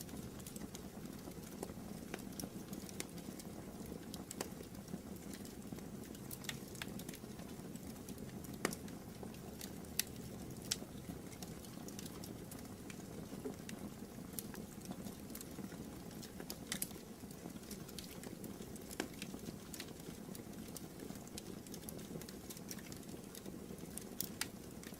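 Wood fire burning in a fireplace: a steady low rush of flames with irregular crackles and pops, a few sharper snaps about nine to eleven seconds in.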